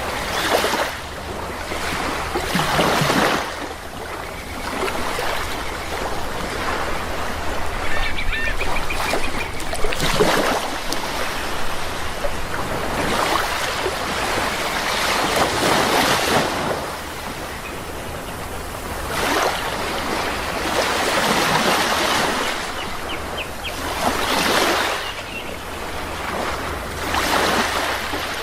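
Sea waves washing in and breaking, a swell of surf every few seconds, with birds calling faintly a couple of times.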